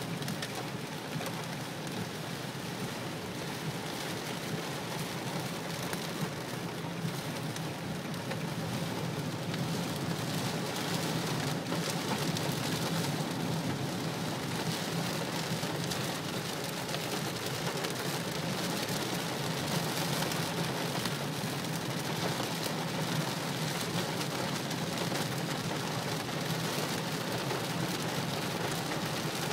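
Heavy rain beating on the roof and windshield of a 2015 Nissan Murano, heard from inside the cabin over a steady low road drone; it grows a little louder about ten seconds in.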